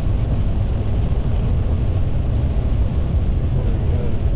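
Car driving on a wet road: a steady low rumble with an even hiss of road noise.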